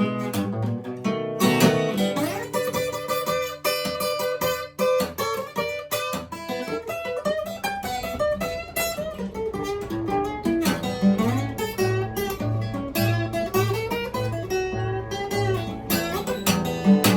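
Amrita Custom Guitars F-Model acoustic flattop guitar fingerpicked in a blues instrumental break, with sliding and bent treble notes over a thumbed bass. In the second half the bass settles into a steady pulse of about two notes a second.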